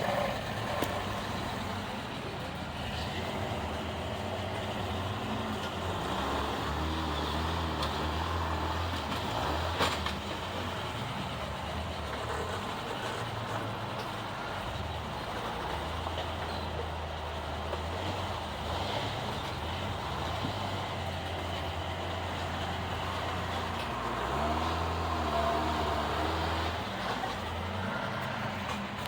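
Off-road vehicle engine running at low revs and revving up in two longer pushes while crawling over rocks, with a sharp knock about ten seconds in.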